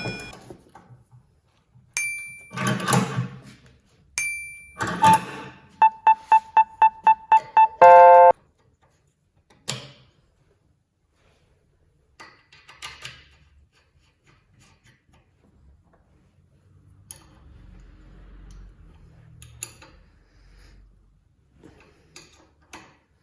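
Electronic chime tones twice, then a quick run of short beeps ending in one longer beep, followed by scattered light clicks and knocks.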